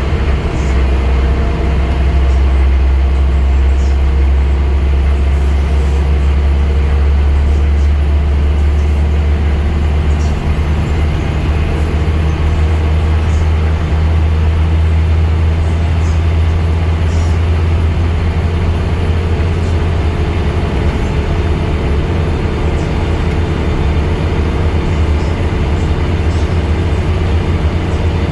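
Scania N230UD double-decker bus's diesel engine running with a steady low drone, the bus under way.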